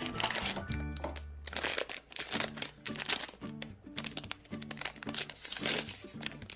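Background music playing while packaging of a Kidrobot mystery box crinkles and rustles as it is opened by hand. The crinkling is loudest as a longer crackle near the end.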